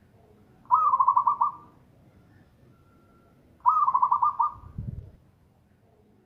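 Zebra dove (perkutut) cooing: two rapid, pulsed phrases of about six notes each, roughly three seconds apart, followed by a brief low thump.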